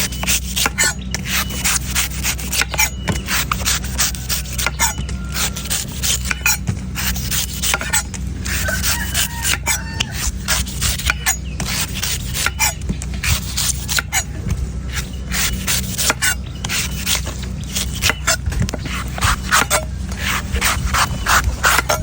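A knife cutting into a coconut in quick, irregular chops and scrapes, several strokes a second, over a steady low hum.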